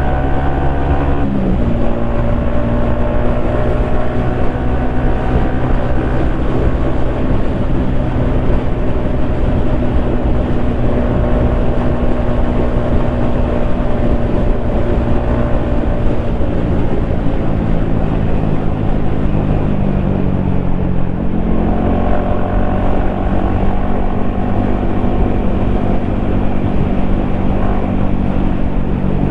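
Yamaha XSR155's single-cylinder engine running under way, heard with wind rushing past a helmet-mounted microphone. Its pitch drops suddenly about a second in, sags slowly through the middle, and rises again about three quarters of the way through.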